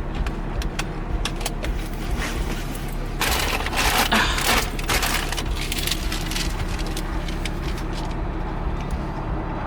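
Steady low hum of a car cabin on the road, with scattered crackling clicks and a louder rustle of handled packaging about three to four and a half seconds in.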